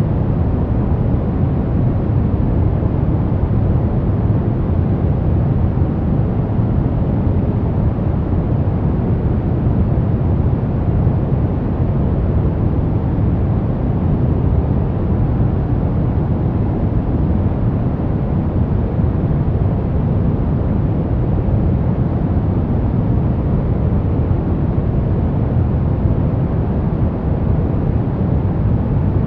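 Steady white noise for baby sleep: a constant, deep rushing hiss, heaviest in the bass and dull at the top, with no rhythm or change.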